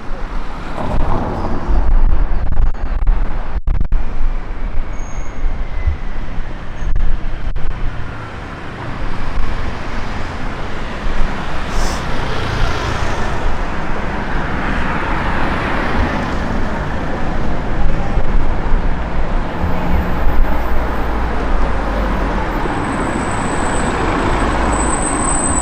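City street noise: traffic with gusty wind buffeting the microphone, a heavy unsteady rumble under a continuous roar.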